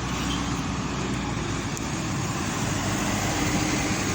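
Steady road traffic noise, an even hum of passing vehicles.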